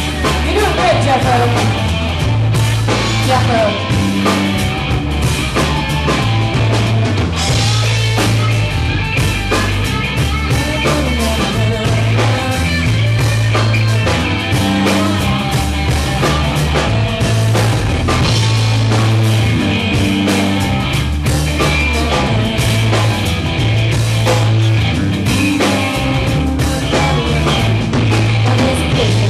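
Live rock band playing loudly, mostly instrumental, with drums and a bass line that changes note about every second.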